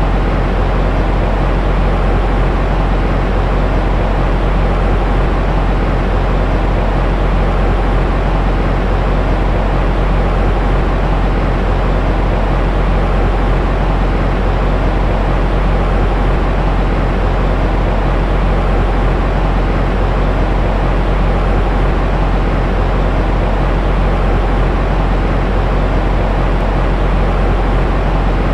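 Steady white noise for soothing a baby, a loud, even, deep-toned rush that never changes.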